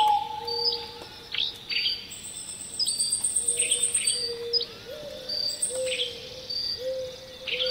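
Night nature soundscape: birds chirping in short, sharp, falling notes, short low whistled calls repeating, and an insect's high, fast-pulsing trill that starts about two seconds in and stops partway through, over a faint steady hiss.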